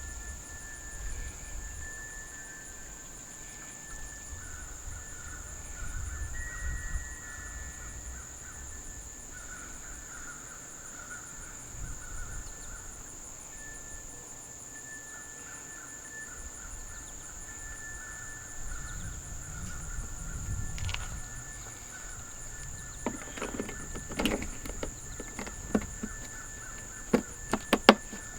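Outdoor ambience: a steady high-pitched insect drone with intermittent bird calls and some low wind rumble. In the last five seconds comes a run of sharp clicks and knocks.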